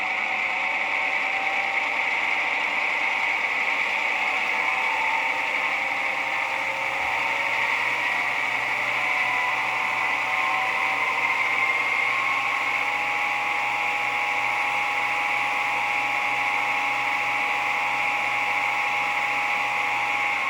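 NMBS/SNCB diesel locomotive 6244 running steadily, a continuous mechanical noise with a high whine. A steadier tone comes in from about halfway through.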